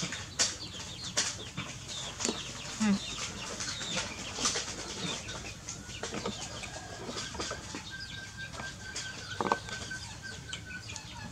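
Birds and fowl calling: scattered short chirps and clucks, with an evenly pulsed high trill through much of the second half.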